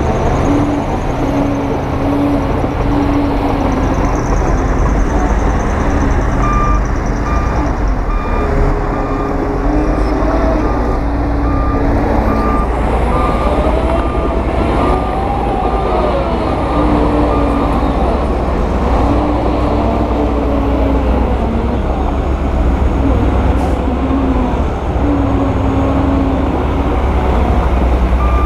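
Heavy construction machinery working: big diesel engines run loud and steady. Reversing alarms beep over them, a low-pitched beeping that comes and goes, and a higher-pitched one beeping about once a second from about a quarter of the way in until past the middle.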